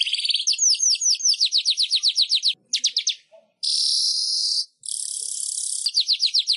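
Manyar weaver bird singing: quick runs of sharp downward-sweeping chirps, about eight a second, alternating with long buzzy, hissing wheezes.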